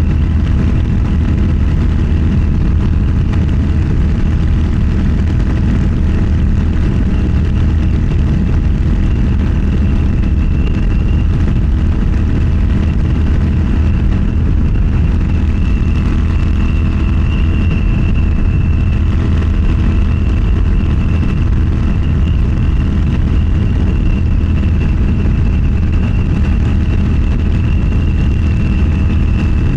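Motorcycle engine running at a steady cruise, a constant loud drone with no revving or gear changes.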